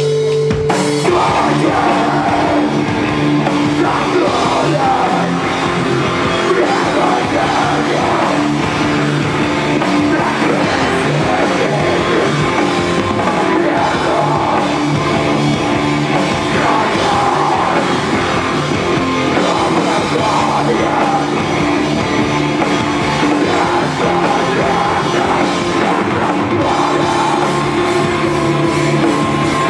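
Rock band playing live and loud, with a drum kit and long held notes.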